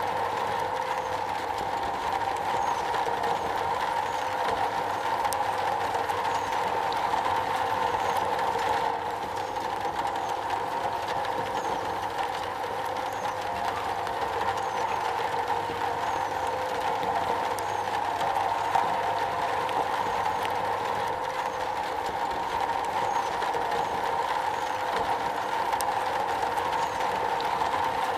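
Rain falling steadily on metal, a dense, even patter with no let-up.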